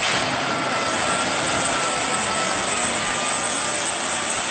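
A heavy machine's engine running steadily, with a faint high whine.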